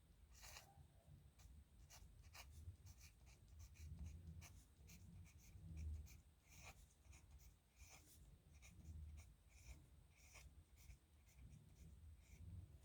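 Faint scratching of a steel nib pen on paper: a quick run of short scratches and ticks from rapid pen strokes, with a few soft low thumps.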